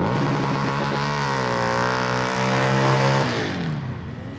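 A car or truck engine revving hard as the vehicle drives past, its note holding high and then dropping in pitch about three seconds in as it goes by and fades away.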